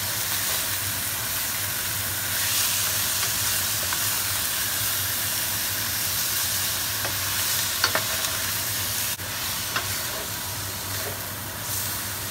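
Chicken livers, onion and ginger sizzling in hot oil in a stainless steel sauté pan as they are stirred with a wooden spatula. There are a few light clicks of the spatula against the pan in the second half.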